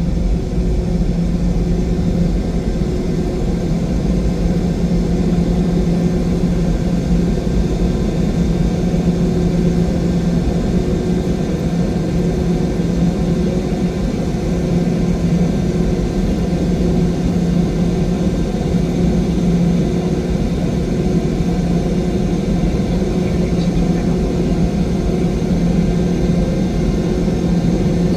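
Steady cabin drone of a Boeing 717-200 with its rear-mounted Rolls-Royce BR715 turbofans running, heard from inside the cabin, with a constant low hum under the rushing noise.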